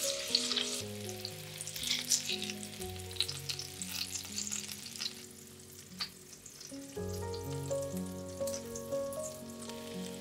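Zucchini rounds frying in oil in a pan, the oil sizzling and crackling steadily. A soft melody plays underneath.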